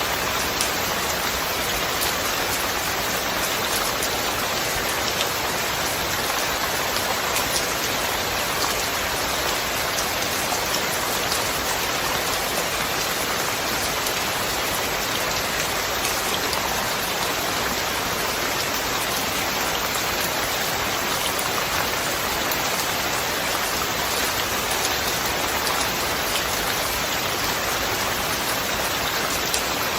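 Steady rain falling: an even hiss with faint ticks of separate drops.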